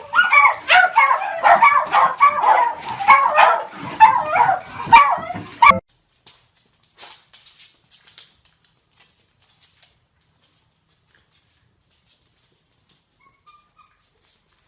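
Dog barks and yips in quick succession, cutting off abruptly about six seconds in; after that only a few faint clicks.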